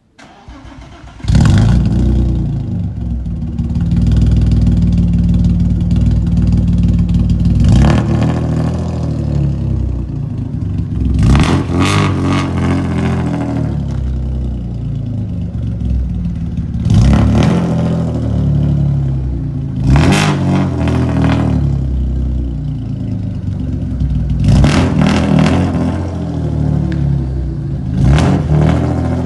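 Volkswagen Passat 2.8 V6 running through a muffler-delete straight pipe. It comes in loud about a second in, then idles with a low rumble and is blipped sharply every few seconds, about seven times.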